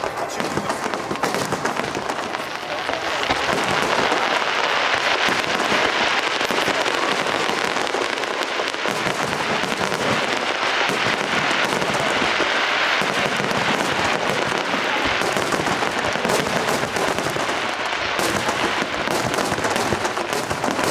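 Fireworks display going off nonstop: many aerial shells bursting at once with dense, continuous crackling. It grows denser and louder about three seconds in.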